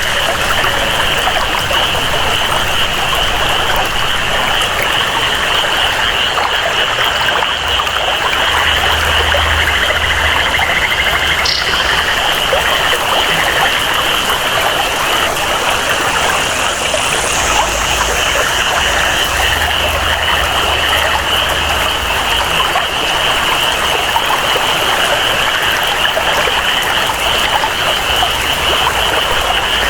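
Rainforest ambience: steady flowing water and rain, with a continuous high-pitched chorus of jungle frogs and insects over it.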